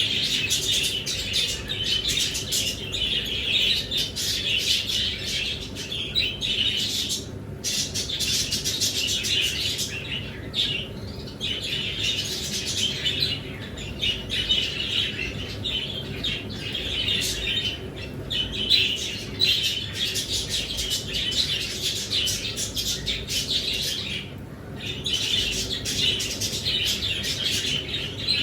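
Many small birds chirping and chattering at once, a dense, continuous twittering with a few brief lulls.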